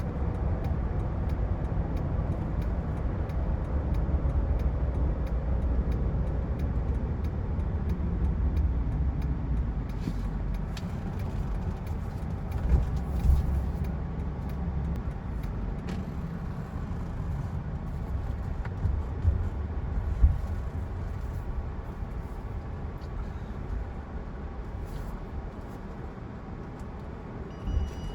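2008 Mercedes-Benz E320 Bluetec on the move, its OM642 V6 turbo diesel and the road making a steady low rumble that slowly gets quieter as the car eases off. A few light knocks come around the middle, and a brief high tone sounds near the end.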